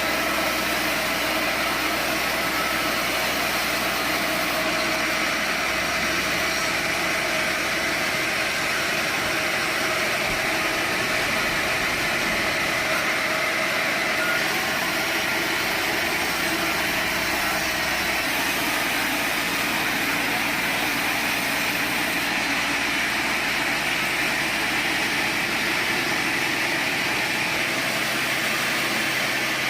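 Sawmill machinery running steadily: a constant mechanical hum with a steady high whine, no clear cuts or impacts.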